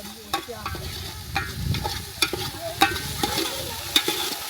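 Chapati frying in oil on a hot pan, sizzling steadily, with a utensil repeatedly clicking and scraping against the pan.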